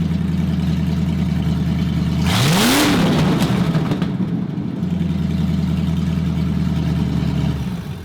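Ford 302 V8 open-headered with no exhaust behind the headers, idling loud and lumpy, blipped once to a quick rev about two seconds in that falls back to idle, then shut off near the end.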